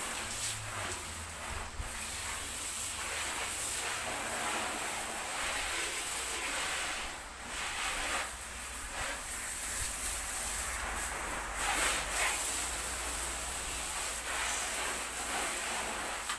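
Water spraying onto a car during a wash, a steady hiss that swells and dips and cuts off suddenly at the end.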